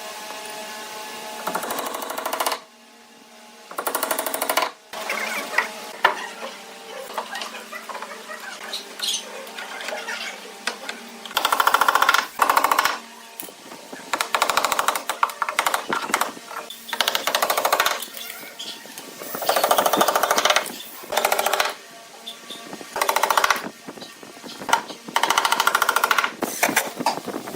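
A power tool running in repeated bursts of one to two seconds, with a rapid rattling texture, about six times over.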